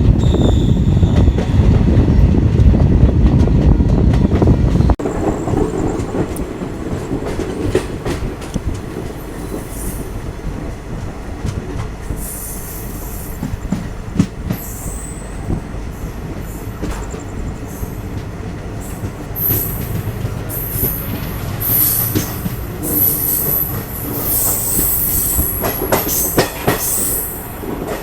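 Passenger train running on the rails, with a loud low rumble over the first five seconds that cuts off abruptly, then a steadier rumble with wheels squealing in repeated high-pitched bursts through the second half.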